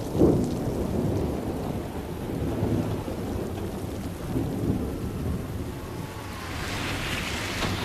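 Thunderstorm: steady rain with deep rolling thunder, a loud peal just after the start and further rumbles after it. A brighter hiss swells near the end.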